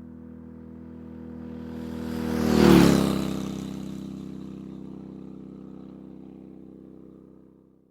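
A motor vehicle drives past on the road: its engine grows louder, passes closest about three seconds in with its pitch dropping, then fades away.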